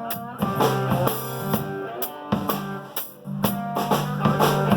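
Live blues-rock band playing an instrumental passage between sung lines: electric guitar and bass over a drum kit keeping a steady beat.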